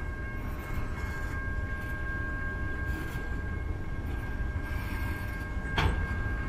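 Freight cars of a mixed manifest train rolling past at trackside, a steady low rumble of steel wheels on the rail with a faint steady high whine. A single sharp clank comes near the end.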